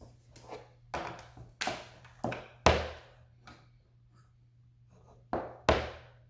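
A series of sharp knocks and clicks of hard objects being handled and set down: a quick run of them, the loudest a little under three seconds in, then a pause and two more near the end, over a steady low hum.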